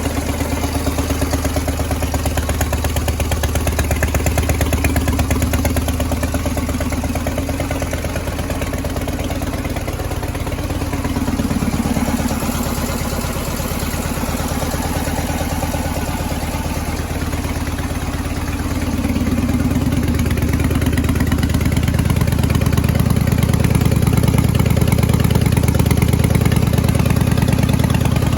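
1978 Harley-Davidson FLH's Shovelhead V-twin running at idle. Its engine speed shifts briefly about a third of the way in and again about two-thirds in, and it runs a little louder after the second change.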